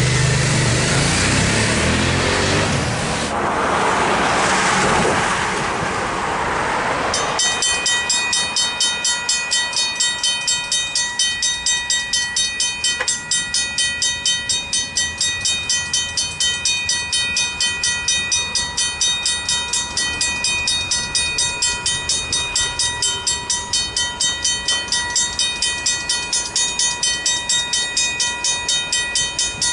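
A train runs past over the level crossing for the first seven seconds or so. Then the crossing's Griswold mechanical bells ring on alone in a rapid, even rhythm of strokes.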